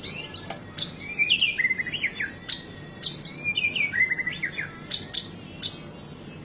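White-rumped shama (murai batu) singing a song rich in mimicked phrases: sharp whistled notes and quick upsweeps, with two similar runs of fast descending notes, one in each half.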